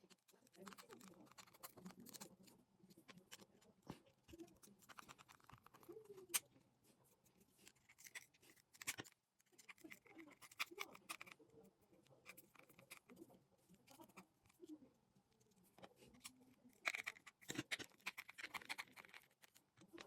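Faint, irregular clicking and tapping of small parts being handled while a fishing reel is worked on.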